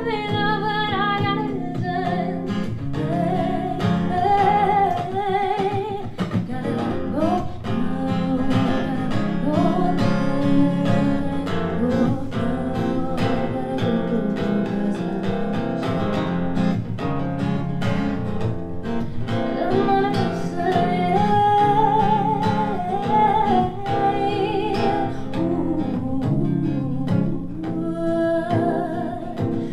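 A singer performing a song live to their own strummed acoustic guitar, a simple three-chord song. The voice holds long notes with vibrato over the steady strumming.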